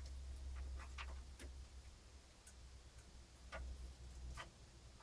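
Scattered light clicks and taps of ribbon cables and connectors being handled and tucked inside a computer case, irregularly spaced, over a low steady hum.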